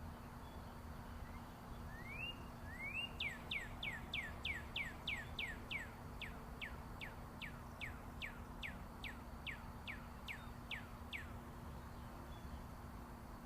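A songbird sings two rising notes, then a long run of quick, downslurred whistled notes, about three a second, that trail off after some eight seconds. A steady rumble of distant interstate highway traffic runs underneath.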